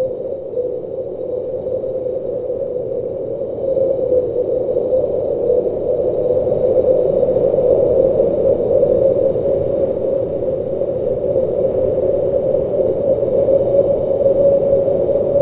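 Blizzard wind blowing: a steady, low rushing that grows a little louder about four seconds in.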